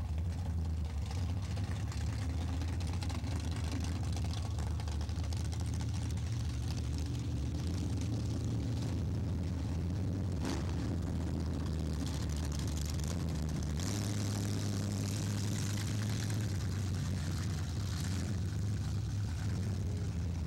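Drag cars idling and creeping forward in the staging lanes: a steady low engine drone. A sharp click comes about halfway through, and a broader rushing noise joins for several seconds after it.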